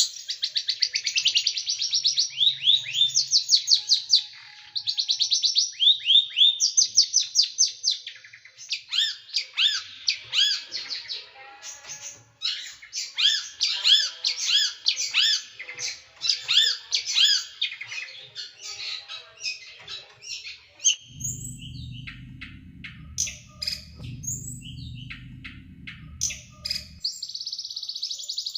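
A small songbird singing rapid runs of sharp, repeated downward-sweeping notes, several a second: the fast, tightly packed 'shooting' phrases. A low rumble sits under the song for several seconds in the latter part.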